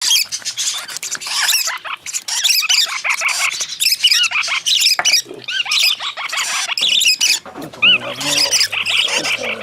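A group of young parrot chicks (lovebirds, Pacific parrotlets and red-rumped parrots) calling loudly, with rapid, overlapping high chirps and squawks.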